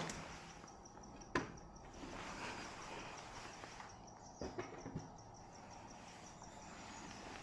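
Faint, steady insect chirping, with a sharp click about a second and a half in and a few light knocks around the middle.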